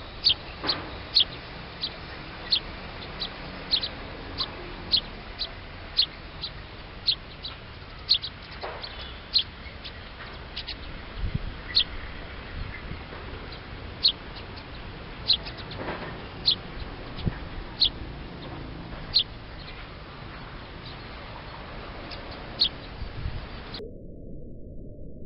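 A small songbird giving short, sharp, high-pitched call notes, repeated irregularly about once a second, over faint background noise. The calls stop shortly before the end.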